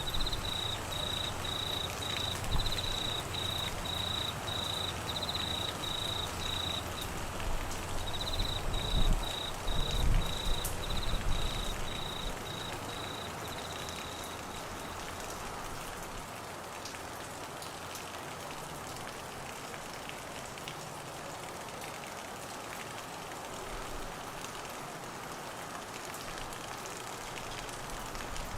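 Steady heavy rain hiss throughout. Over the first half a cricket chirps at about two chirps a second, and a low rumble of thunder swells about nine to eleven seconds in.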